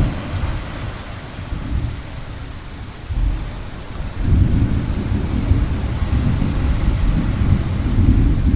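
Low rolling rumble of gentle thunder that eases off, then swells again about four seconds in, over a steady hiss of ocean waves.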